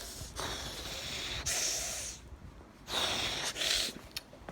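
A person breathing hard through the cold: two long, noisy breaths, the first about two seconds long and the second about a second, with no voice in them.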